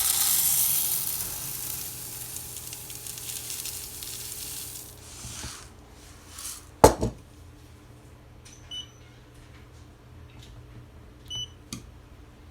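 A rushing hiss that fades out, a sharp click about seven seconds in, then short electronic beeps, one near nine seconds and two close together near the end, from a grain moisture tester being used to test a wheat sample.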